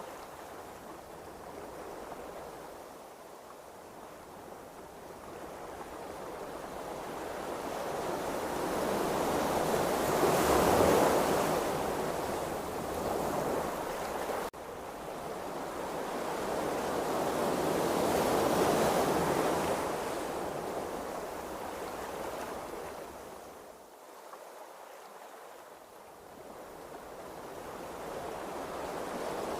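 Sea waves washing, the rush of water swelling and fading in slow surges, loudest twice about eight seconds apart, with a sharp brief break about halfway through.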